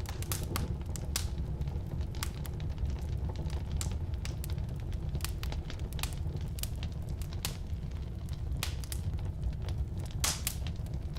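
Firewood burning: a steady low rumble of flames with frequent sharp crackles and pops, one louder pop near the end.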